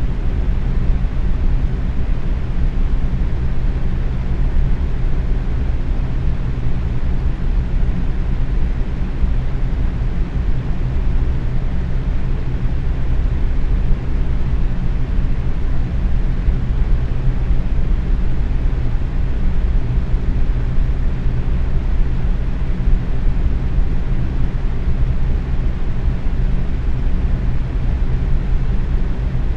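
Box fan running steadily at medium speed: an even, low rushing of air with a faint steady hum.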